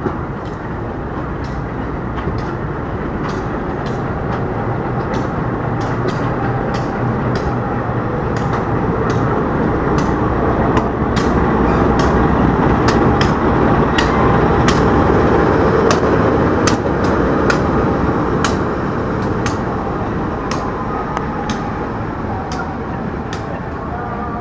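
A train rolling slowly on the tracks during shunting: a steady rumble with many sharp clicks of the wheels over rail joints and points. It grows louder toward the middle and eases off near the end.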